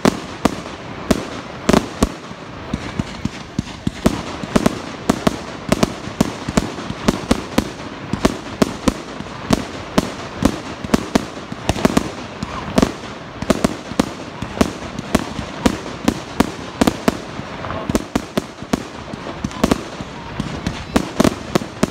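Fireworks display: a rapid, continuous barrage of sharp bangs and pops, several a second, from shells bursting overhead.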